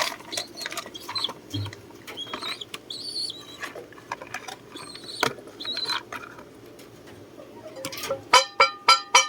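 Pigeon loft sounds: short, high squeaks and light clicks and scuffles from the birds, then near the end a fast run of loud, evenly pulsed calls.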